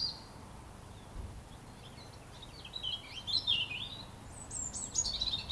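A robin singing: after a short pause, one phrase of quick warbling notes about three seconds in, and another beginning near the end.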